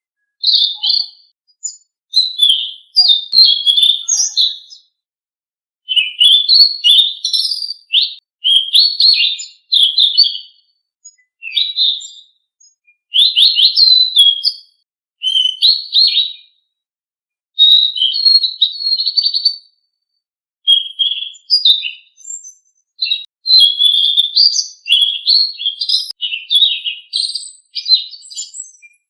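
Song of the songbird known in Indonesia as selendang biru: rapid, varied high chirps and whistles delivered in phrases of one to a few seconds with short pauses between them.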